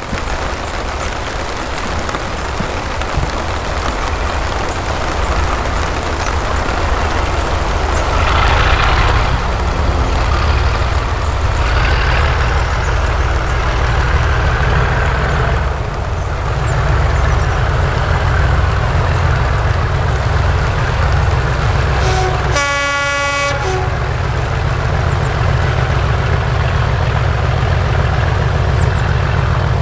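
British Rail mainline diesel locomotive engine running steadily under power with a deep rumble, sounding a short blast on its horn about two-thirds of the way through.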